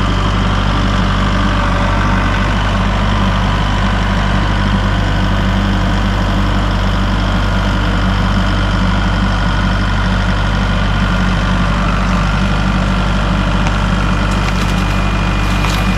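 Engine running steadily at an even speed, with a few sharp cracks near the end.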